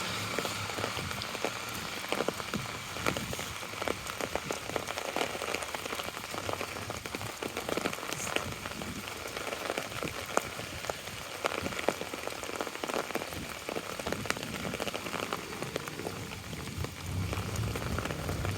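Steady rain falling on an umbrella held overhead, with many separate drops striking close by.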